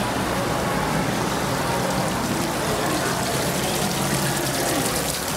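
Steady rush of falling water, even and unbroken, with faint voices or music underneath.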